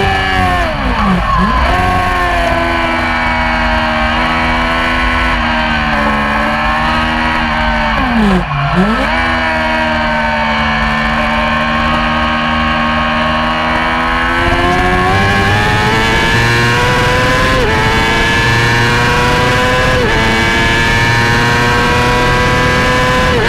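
Yamaha YZF-R6 600 cc inline-four race engine at high revs. The pitch dips sharply and recovers twice, then climbs steadily, stepping down slightly at two upshifts near the end.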